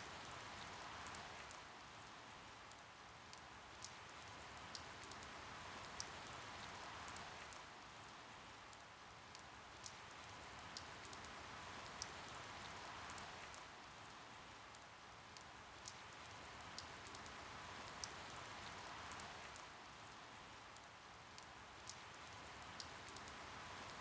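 Steady rain with scattered sharp drops pattering, swelling and easing about every six seconds.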